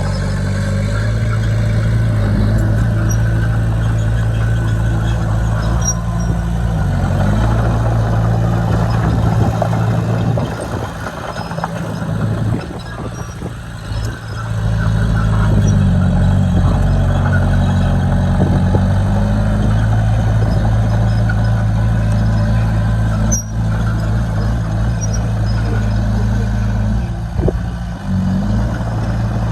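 Diesel engine of heavy earthmoving machinery running under changing load, its pitch dipping and recovering a few times, with a quieter stretch in the middle.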